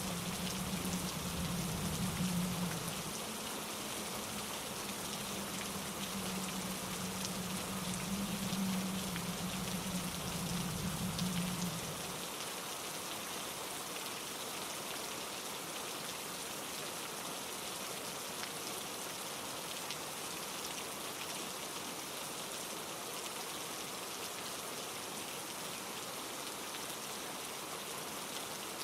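Steady rain falling on trees, an even hiss. A low rumble runs underneath and cuts off abruptly about twelve seconds in.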